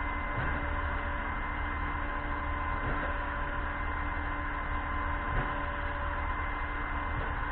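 Concrete pump truck running, a steady mechanical hum and noise with faint knocks about every two and a half seconds.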